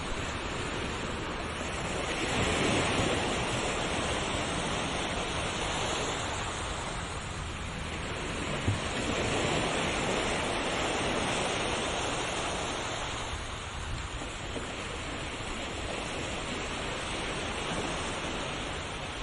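Ocean surf: waves washing in continuously, the noise rising and falling in slow swells, with a single short tick about nine seconds in.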